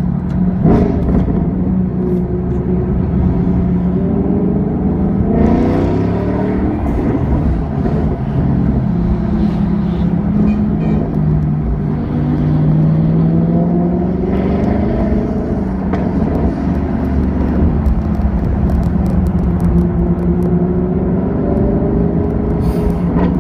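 Ferrari 458 Italia's V8 engine running close ahead, heard through the windscreen from inside a following car. Its note rises and falls several times as it accelerates and eases off in traffic.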